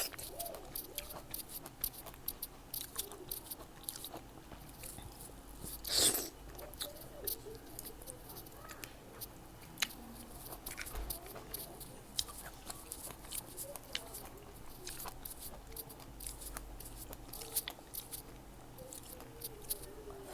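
Close-miked chewing and biting of fresh fruit: many small wet mouth clicks and smacks, with one louder crunchy bite about six seconds in.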